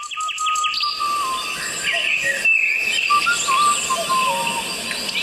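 Many birds singing and chirping together in a dense chorus, with rapid chirps right at the start and drawn-out whistled notes among them.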